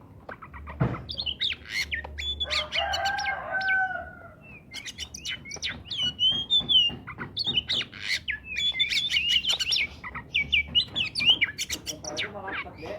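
Oriental magpie-robin singing a rapid, varied song of whistles, chatters and sharp notes, with a lower, drawn-out call about two to four seconds in.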